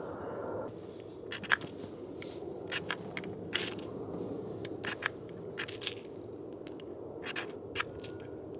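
Newly lit campfire kindling crackling, with irregular sharp pops and snaps over a steady low hiss; the wood is a little wet.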